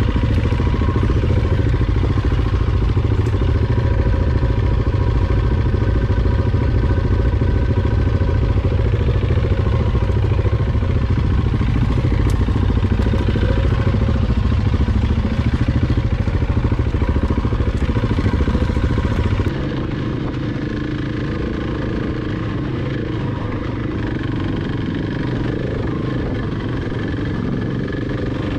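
Adventure motorcycle engine running steadily, loud and low-pitched. About two-thirds of the way through, the sound drops abruptly to a quieter but similar engine sound.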